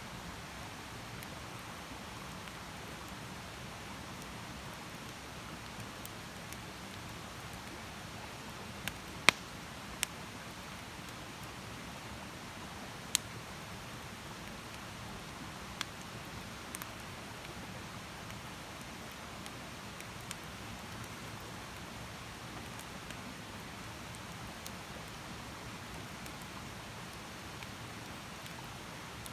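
Wood campfire burning: a steady soft hiss with scattered sharp crackles and pops, three close together about nine seconds in, the loudest of them, then single pops every few seconds.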